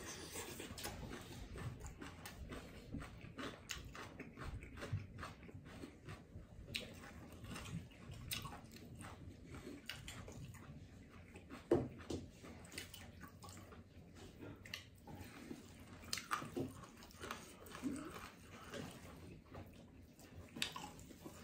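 Faint eating sounds of someone chewing and eating rice with dal by hand: many small, irregular wet clicks, with one sharper click near the middle.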